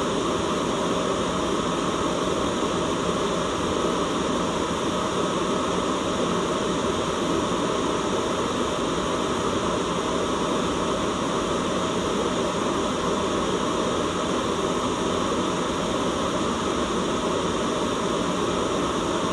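Steady white noise: an unbroken hiss that never changes in level, fuller in the low middle than at the top.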